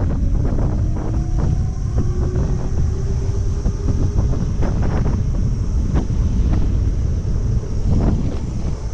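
Wind buffeting the microphone of a rider on a moving electric moped, a steady loud rumble. A faint whine rises slowly in pitch over the first half.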